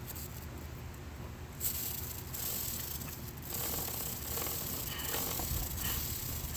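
Aerosol chain degreaser hissing as it is sprayed onto a motorcycle chain, starting suddenly about a second and a half in and growing stronger near the middle.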